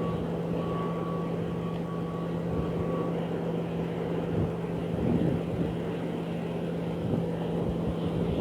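A steady engine drone, a motor running at an even pitch. A thin high tone over it stops about three seconds in.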